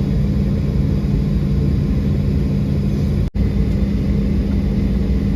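Steady loud rumble of an airliner, with a constant low hum, broken by a brief dropout a little over three seconds in.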